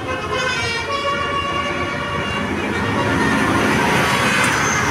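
A bus's multi-tone horn sounds a held chord for about the first second and a half. Then the bus's engine and tyre noise grow louder as it passes close by.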